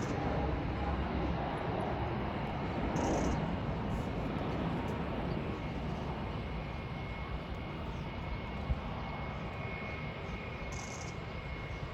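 Jet airliner engine noise: a steady, broad rumble that slowly fades, with a faint high whine in the later part.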